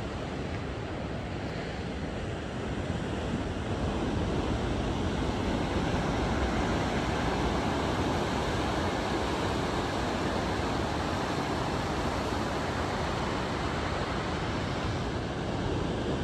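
Pacific Ocean surf washing steadily, with wind buffeting the microphone; the rush swells about three seconds in and stays up.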